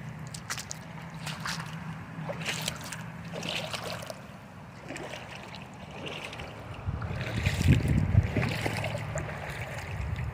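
Moving water splashing and trickling in short, scattered bursts over a steady low hum. From about two-thirds of the way in, gusts of wind buffet the microphone.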